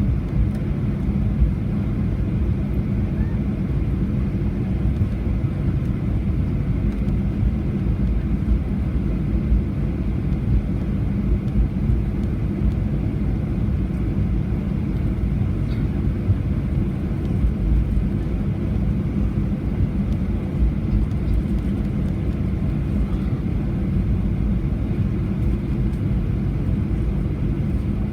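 Steady low rumble heard inside the cabin of a Boeing 737-800, its CFM56 engines at idle while the aircraft taxis after landing.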